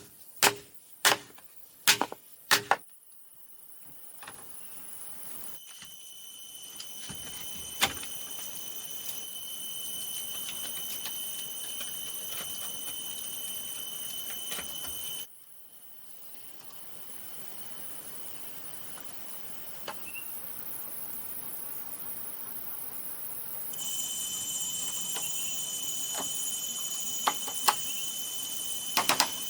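A few sharp knocks about half a second apart in the first three seconds, then steady forest ambience with an even, high-pitched insect drone. The ambience cuts off abruptly about halfway through and returns, shifting again a few seconds later.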